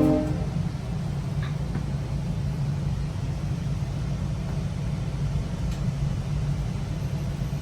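A GO Transit commuter train running along the track, heard on board: a steady low rumble. The train horn's chord cuts off just as it begins, and there are a couple of faint clicks.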